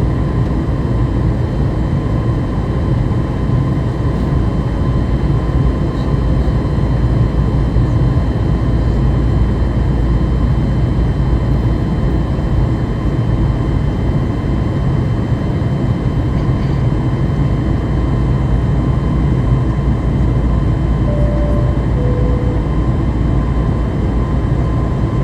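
Steady cabin noise of a Boeing 737 MAX 8 in its climb: the deep rumble and rush of its CFM LEAP-1B engines and the airflow, with faint steady whine tones above it. Near the end a short two-note cabin chime sounds, high then low.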